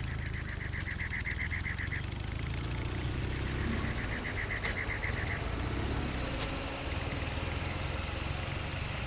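Low, steady engine rumble of moving vehicles, with a rapid, high pulsing trill twice in the first half and a few faint sharp ticks near the middle.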